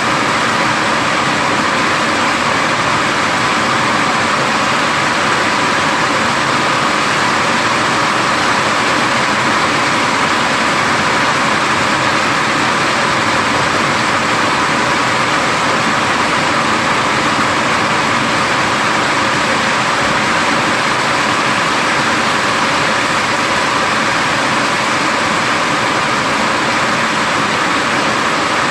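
Heavy rain pouring down during a thunderstorm: a steady, even hiss with no thunderclaps.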